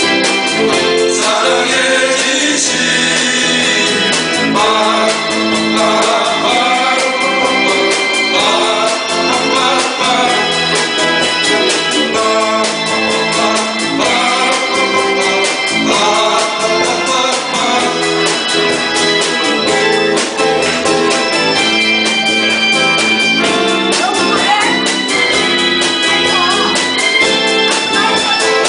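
A live band playing a Korean pop ballad: a singer over electronic organ or keyboard backing with a steady beat.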